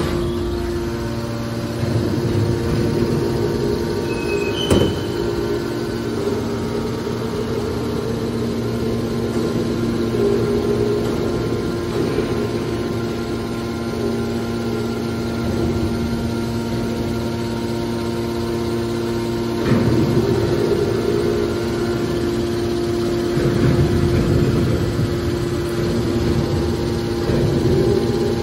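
Hydraulic scrap car baler running: a steady, loud hum from its pump and motor, with heavier surges as it presses. One sharp bang comes about five seconds in.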